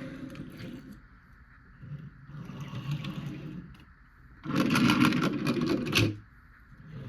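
Die-cast toy cars being handled and moved, a rattling clatter of small metal and plastic parts. It comes in a few spells and is loudest and densest for about a second and a half past the middle.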